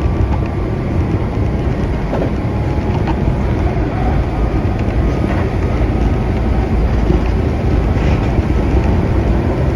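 Keihan electric commuter train running along the line, heard from inside the carriage: a steady low rumble of wheels and running gear with a few faint clicks.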